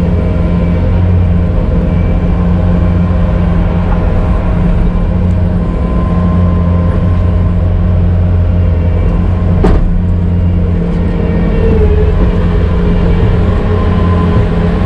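Vehicle engine running steadily, heard close, with one sharp click about ten seconds in.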